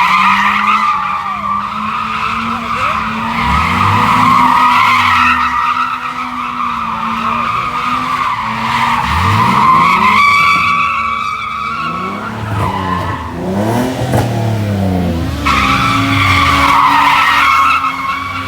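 A car spinning its tires with a steady, high tire squeal while the engine revs up and down again and again. The squeal drops out for about five seconds from roughly ten seconds in, with the revving still rising and falling, then comes back near the end.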